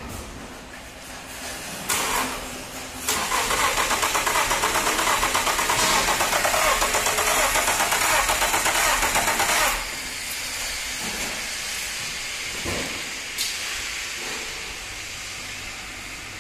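Nissan RB30 3.0-litre straight-six petrol engine on a test stand being cranked and started. A short burst comes about two seconds in and a loud, evenly pulsing stretch lasts from about three to ten seconds; after that the engine runs more quietly and steadily.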